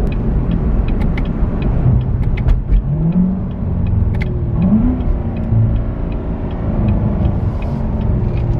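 Chevrolet Corvette Grand Sport's 6.2-litre V8 running under way, heard from inside the cabin. The engine's pitch rises briefly twice as it accelerates, about three and five seconds in.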